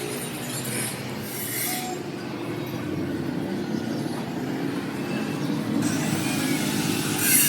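Machinery running steadily, with a short high hiss about a second and a half in and another near the end.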